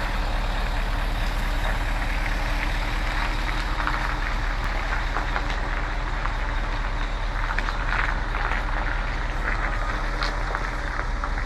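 Truck engine running steadily, a constant low hum with scattered light rattles above it.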